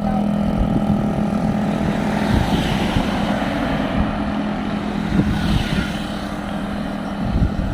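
Motor vehicle engine running steadily, a constant droning hum with low rumble that eases off near the end.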